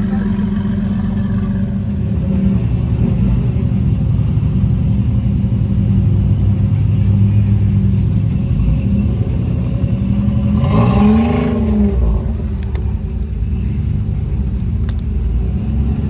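Engine of a 1993 Toyota 4x4 running at low revs while crawling over rocks, with one brief rev about eleven seconds in that rises and falls. The engine has a rod knock.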